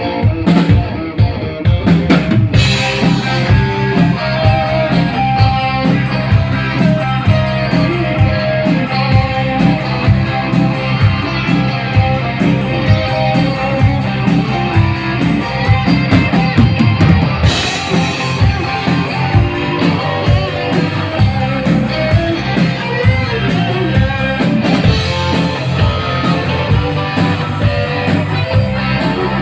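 Rock band playing live: guitar over a drum kit, with a thinner, quieter high end for the first two seconds or so.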